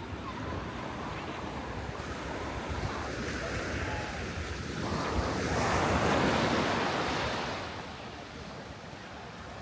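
Sea waves breaking and washing up the beach, one wash swelling to a peak about six seconds in and then fading, with wind rumbling on the microphone.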